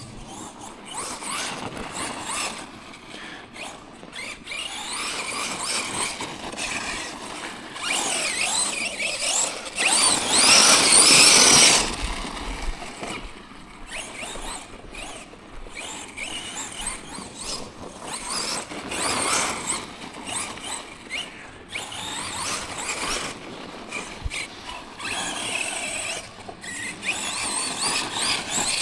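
Tekno MT410 2.0 1/10-scale RC monster truck's electric motor and drivetrain whining in repeated bursts, the pitch rising and falling with the throttle. The loudest burst comes about ten to twelve seconds in.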